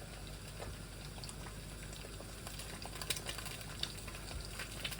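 Eggs frying in a pan: a steady, quiet sizzle with scattered small pops and crackles.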